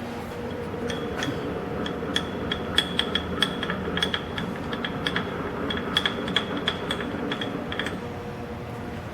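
Haas TL-2 CNC lathe running under power: a steady machine hum with irregular mechanical clicking and rattling that starts about a second in and stops near the end.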